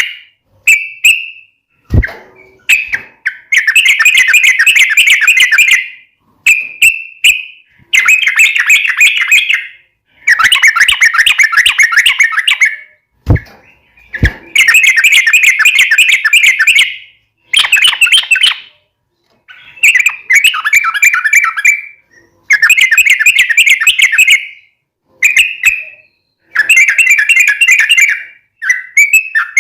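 Sooty-headed bulbul singing in full voice: repeated bursts of rapid chattering, bubbly phrases, each a second or two long with short pauses between, plus a few brief low knocks.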